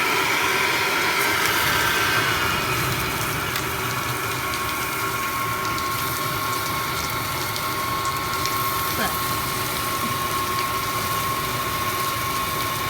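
Heavy rain falling steadily, with a thin steady high tone running through it from about four seconds in.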